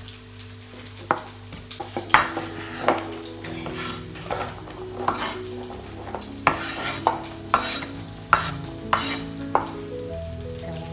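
A spoon stirring food in a metal cooking pot, knocking and scraping against the sides in a dozen or so irregular strokes, over a faint sizzle.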